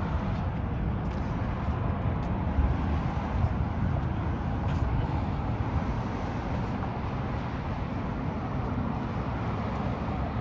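Steady road traffic noise with a continuous low engine rumble.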